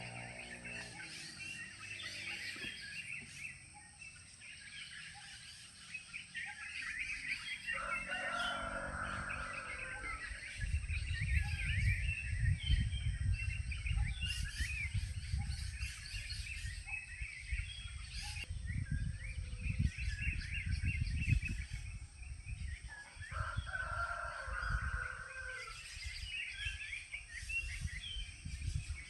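Rooster crowing twice, about eight seconds in and again near the end, over continual small-bird chirping. A low rumble runs through the middle stretch.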